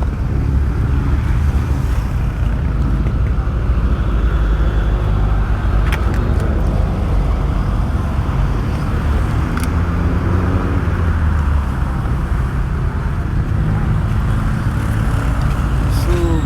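Steady motor-vehicle engine and road-traffic noise, a low engine hum under a continuous rumble, with a couple of brief clicks.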